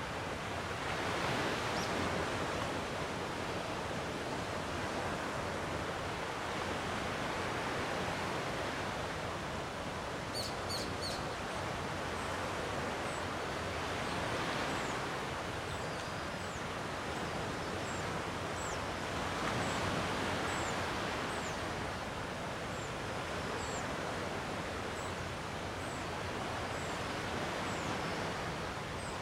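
Gentle sea waves washing ashore, swelling about every five to six seconds. A small bird chirps over and over through the second half, with a few quick high ticks a little before.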